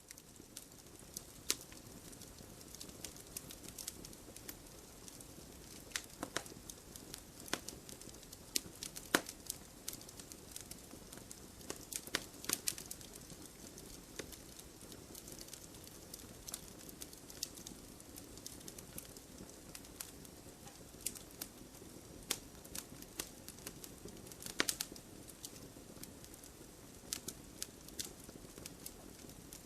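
Firewood burning: a steady soft hiss under irregular sharp crackles and pops from the logs, with a few louder snaps.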